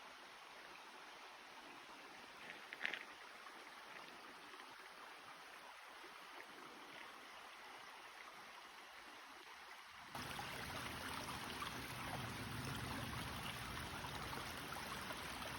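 A stream running steadily, a continuous rush of water. About ten seconds in it suddenly gets louder and fuller. A brief sharp sound stands out about three seconds in.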